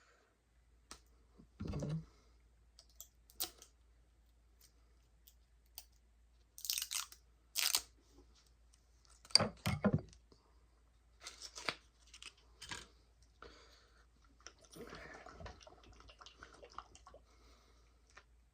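Handling noises from a hot sauce bottle being opened: scattered sharp clicks, crinkling and rustling, loudest in a cluster about two-fifths and halfway through.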